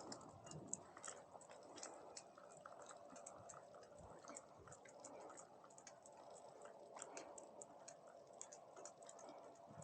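Near silence: faint background hiss with scattered, irregular soft ticks and clicks.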